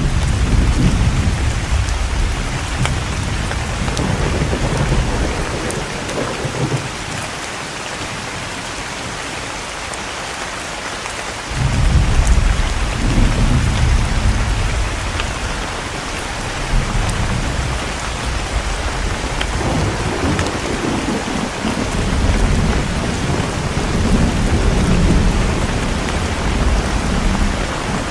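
Steady heavy rain with rolling thunder rumbling through it again and again; one clap of thunder breaks in suddenly about halfway through and rumbles on for several seconds.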